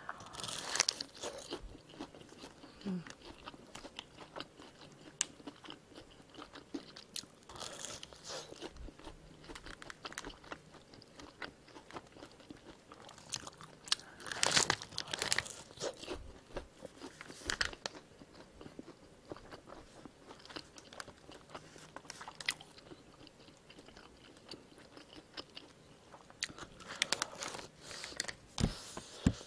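Close-miked biting and chewing of crisp fried fast food: crunchy bites into a breaded long cheese stick, then into small fried potato pieces. The crunches come in clusters every few seconds, with quieter chewing between them.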